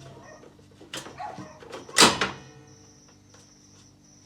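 Air fryer basket drawer being pushed back into the machine: a light knock about a second in, then one loud plastic clunk at about two seconds as it seats.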